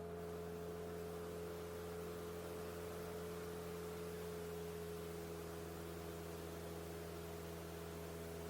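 Cessna 172 Skyhawk's engine and propeller droning steadily in flight, faint and unchanging, with a low hum and a light hiss.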